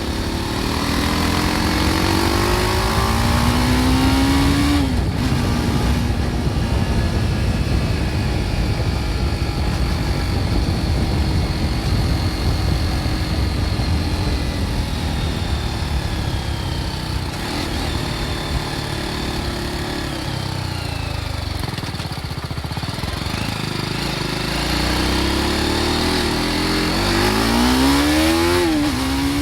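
BMW G310 R's single-cylinder engine with its stock exhaust under way: revs climb and drop at a gear change about five seconds in. It then holds a steady cruise and eases off past the middle. Near the end it revs up again through two quick upshifts, over a steady rumble of wind and road noise.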